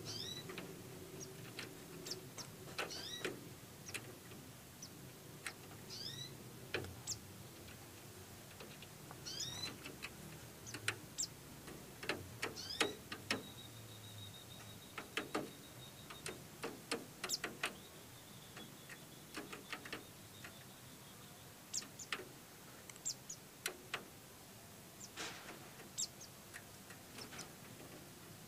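White-eyes (pleci) chirping: scattered short, high chirps that bend in pitch, mixed with light ticks and clicks. A thin steady high tone runs for a few seconds near the middle.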